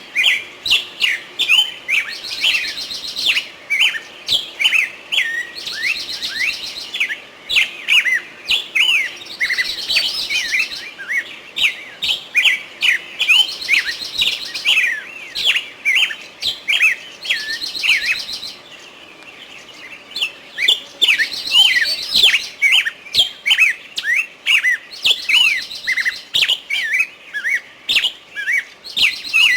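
Small birds chirping rapidly, many quick calls overlapping, with a buzzy trill that returns every few seconds. The chirping briefly drops away about two-thirds of the way through, then resumes.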